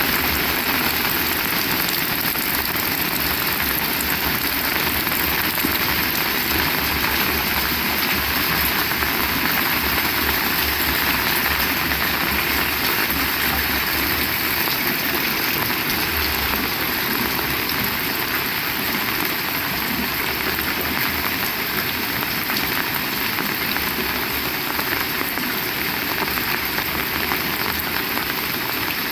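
Heavy rain falling steadily on surfaces, an even, continuous hiss of drops, with a low rumble underneath through roughly the first half.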